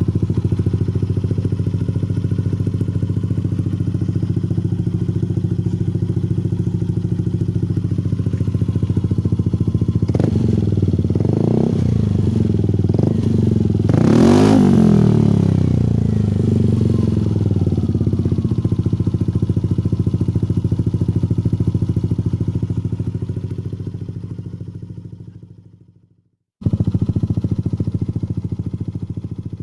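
Yamaha Lexi 125 scooter's single-cylinder engine running through an aftermarket Akrapovic exhaust. It idles steadily, gets a few quick throttle blips about ten seconds in, then one bigger rev that rises and falls before it settles back to idle. The sound fades out, comes back suddenly and fades again near the end.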